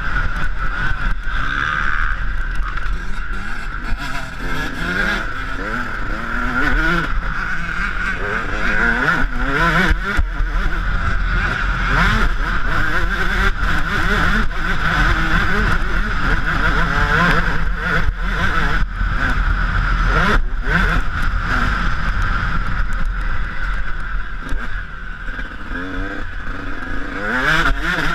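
Yamaha YZ125 two-stroke single-cylinder motocross engine revving hard again and again, its pitch rising through each burst and dropping off between them, with a few sharp knocks along the way.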